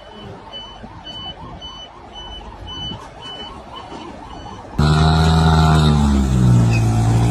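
An electronic vehicle warning beeper sounding a high, even beep about twice a second. About five seconds in, a much louder, deep horn-like tone cuts in and slides down in pitch.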